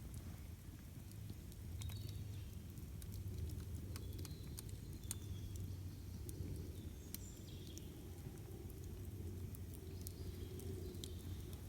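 Campfire crackling, with sharp irregular pops and snaps over a steady low rush of the burning wood. A few short, high bird chirps come through now and then.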